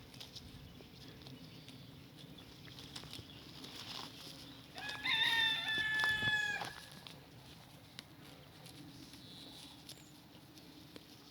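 A rooster crowing once, a single loud call lasting about two seconds near the middle, over faint scattered clicks and rustling.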